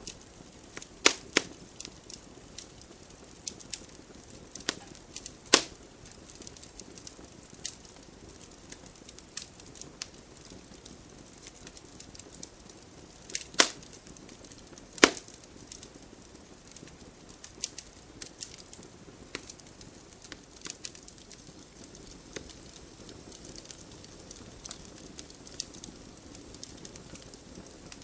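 Wood fire burning in a fireplace: a steady soft hiss with scattered crackles and a few sharp, louder pops of the burning logs, the loudest about a second in, near five and a half seconds, and twice around fourteen to fifteen seconds.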